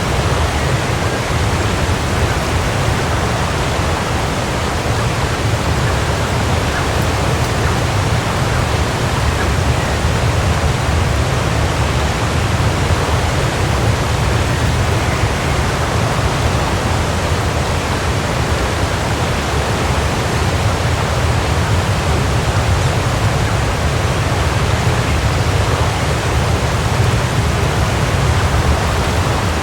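Waterfall: water falling and splashing in a steady, unbroken rush with a deep rumble underneath.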